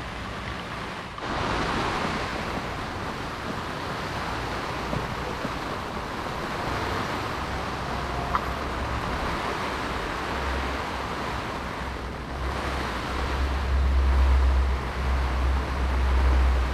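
Heavy rain falling steadily, a dense even hiss, with a low rumble of wind buffeting the microphone that grows louder in the last few seconds.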